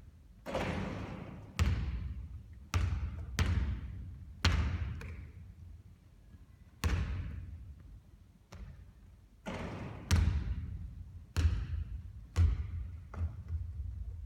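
A basketball bouncing hard on a court floor about ten times at irregular intervals, each impact echoing, as shots are taken and the ball comes down.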